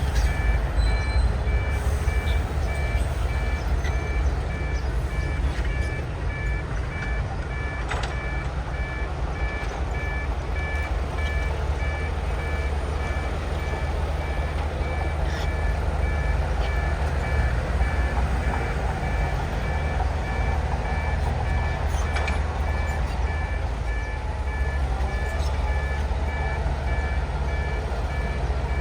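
Diesel engine of heavy earthmoving machinery running with a steady low rumble under a backup alarm beeping evenly in two high tones. A few metallic clanks stand out, one about a third of the way in and another near the end.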